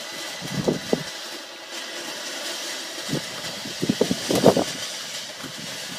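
A garden firework burning with a steady hiss, with short louder bursts about a second in and again around four and a half seconds.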